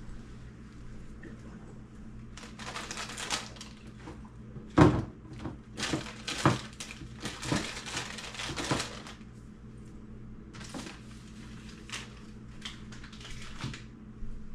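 Frozen food packages and plastic storage bins being handled: crinkling packaging and a series of hard knocks and clatters, the loudest about five seconds in.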